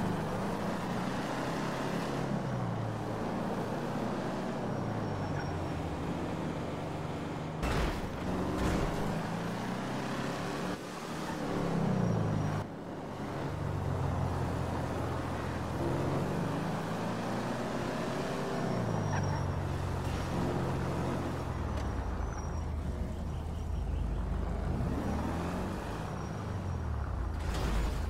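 Nissan Titan pickup's 5.6-litre V8 engine under way. Its pitch climbs and then drops several times as it revs and shifts up. There is a sharp knock about eight seconds in.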